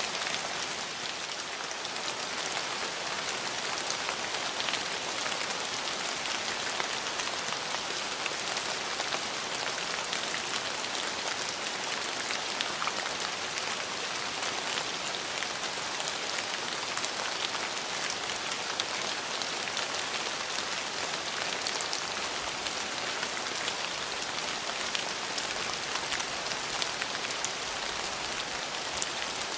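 Steady rain falling, an even hiss with many fine drop patters hitting surfaces.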